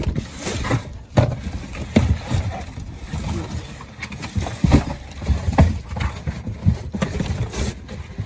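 Items being handled and moved about in a dumpster: irregular knocks and thumps with rustling of bags and packaging.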